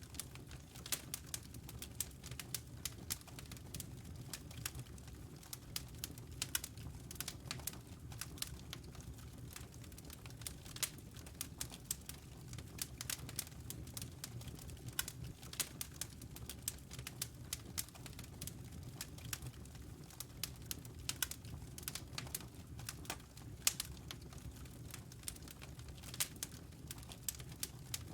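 Wood fire in a fireplace crackling, with dense, irregular pops and snaps over a steady low rumble of the burning fire.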